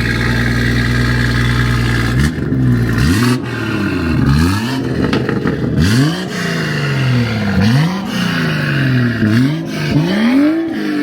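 Car engine idling, then revved in a rapid series of throttle blips, about eight, each rising and falling in pitch.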